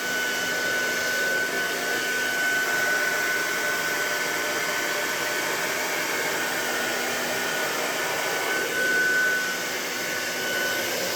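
Hair dryer running steadily during a straightening blow-dry: an even rush of air with a steady high whine.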